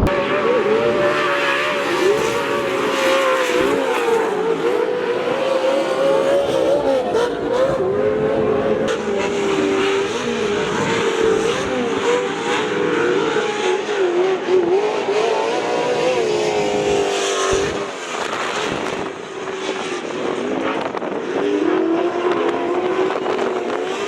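Dirt bike engine running hard on a motocross track, its pitch rising and falling continually as it revs up and backs off.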